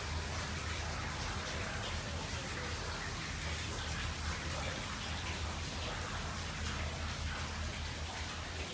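Steady background hiss with a low hum underneath and many light scattered ticks, rain-like in character.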